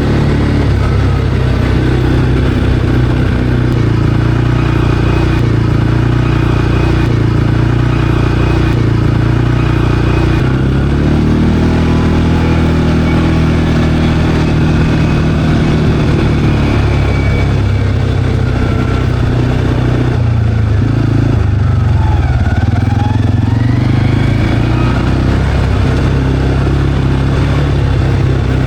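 CFMOTO CForce 520L ATV's single-cylinder engine running steadily under way. Its note rises about eleven seconds in and drops briefly around twenty seconds in.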